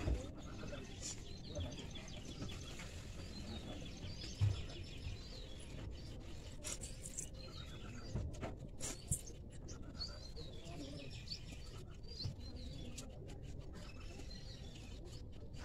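Small birds chirping repeatedly in the background over a steady low noise, with a few soft low thumps.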